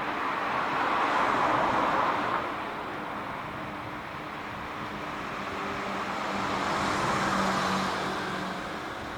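Road traffic passing twice, each time swelling and fading over a few seconds, over a steady low hum from a Hitachi RAC-D6325RD air-conditioner outdoor unit running in cooling mode.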